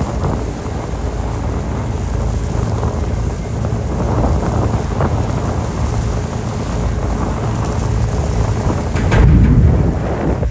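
Wind buffeting the microphone over the low rumble of a car ferry under way in rough seas, swelling louder about nine seconds in.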